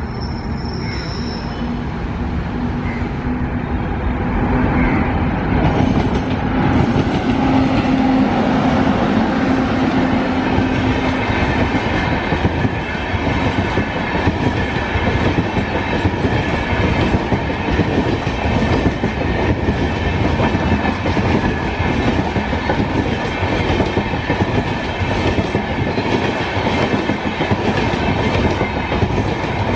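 A WAP 7 electric locomotive hauling an express passenger train passes at speed. It grows louder over the first few seconds, with a steady low hum that fades out after about twelve seconds, then the coaches' wheels clatter rhythmically over the rail joints as the train runs by.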